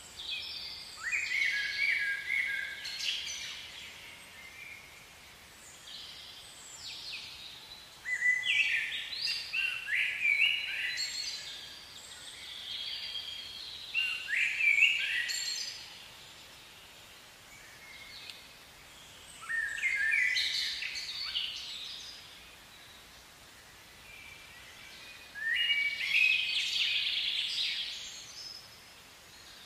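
A songbird singing in repeated bouts of quick, high chirping notes, about five phrases roughly six seconds apart, over faint steady background noise.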